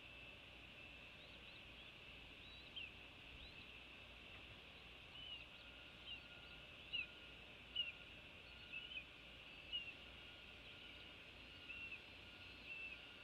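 Faint short high bird chirps, roughly one a second, some sliding down in pitch, over a steady faint high hiss of outdoor background.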